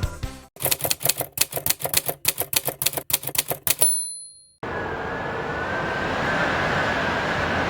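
Typewriter keystroke sound effect, a quick run of clicks for about three seconds ending in a single bell ding. After a brief gap, steady vehicle running noise with a faint high whine starts.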